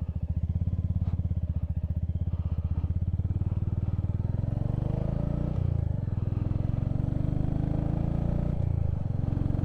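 Motorcycle engine running steadily while riding, its note shifting about five and a half seconds in and again near the end.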